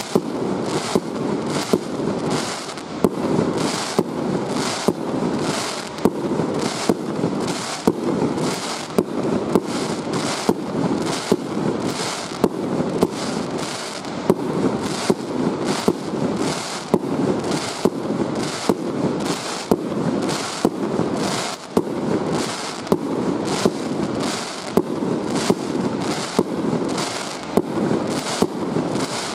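Aerial firework shells bursting in steady, rapid succession, sharp bangs about twice a second over a continuous rumble.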